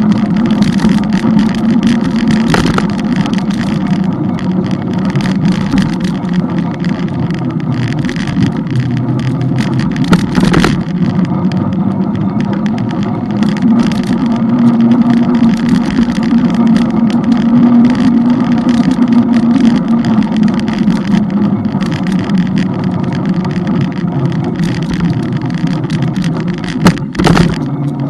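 Motorbike engine running steadily on the move, its note drifting up and down a little, with rough crackling noise over it. There is a sharp knock near the end.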